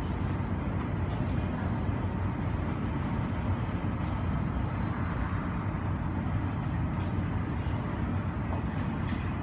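Steady low rumble of airport apron noise (distant jet engines and ground traffic) heard through the terminal window glass.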